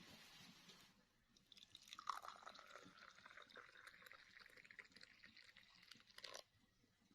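Faint liquid pouring in a thin stream, starting about two seconds in and stopping abruptly near the end.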